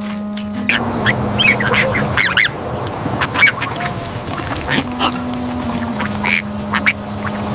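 Duck quacking and honking in a run of short calls, over a steady low background tone that shifts pitch in steps.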